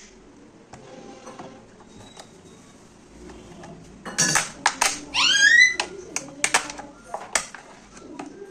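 Sharp clicks and taps of small objects being handled, with a short rising squeak about five seconds in.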